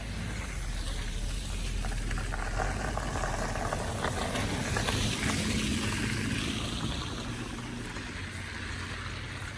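A car driving past on a snowy, slushy street: engine hum with tyres hissing through slush, growing louder to about halfway and then fading as it goes by.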